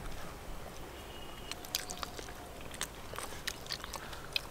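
Chewing and mouth sounds of people eating roti and chicken curry by hand: quiet, scattered short clicks and smacks.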